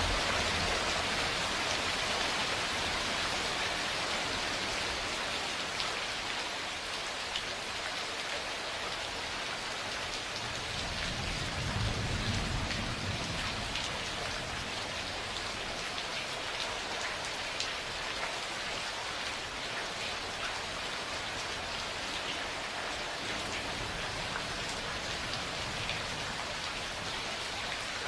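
Steady rain pattering on a surface, with scattered individual drops. Low thunder rumbles, one fading out in the first seconds and another rolling briefly about halfway through.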